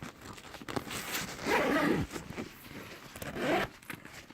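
Zipper on a small soft-sided car detailing bag being pulled open in several rasping strokes, with handling noise from the bag.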